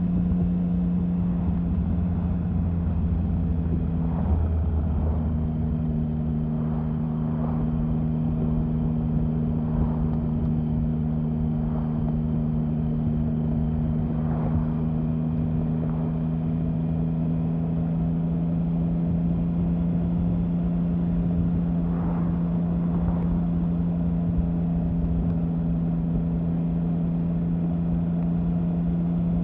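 Triumph Sprint 1050's three-cylinder engine running at steady engine speed, with a brief change in pitch about four seconds in.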